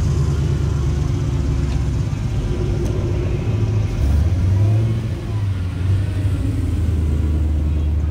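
A car engine idling, revved briefly about four seconds in before settling back to idle.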